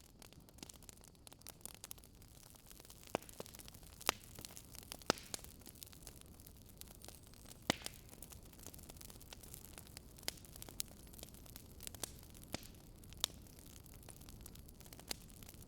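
Wood fire crackling: irregular sharp pops and snaps over a low steady hiss, a few pops louder than the rest.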